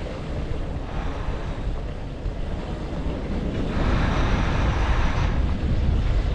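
Wind buffeting a bicycle-mounted GoPro microphone while riding, a low rumble throughout, with a louder hiss rising over it for a second or two about halfway through.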